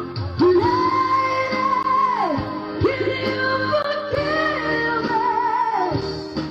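A woman singing with passion over backing music, holding long notes with vibrato.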